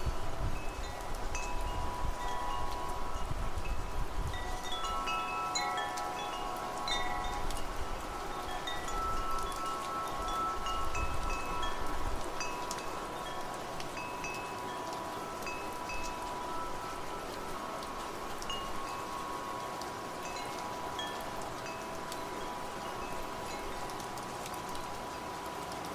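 Wind chimes ringing irregularly, with many short high notes and several long, lingering tones, over a steady hiss of rain. Low gusts of wind come through in the first half and fade out a little under halfway.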